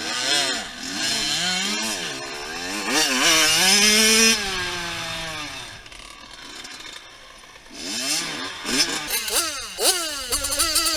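Dirt bike engine revving hard and shifting, its pitch climbing and dropping again and again. It fades away around the middle as the bike rides off, then comes back louder with quick bursts of throttle near the end.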